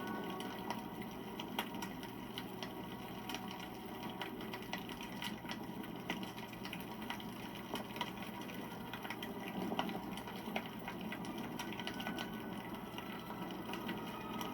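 Wood campfire crackling: dense, irregular pops and snaps over a steady hiss of burning.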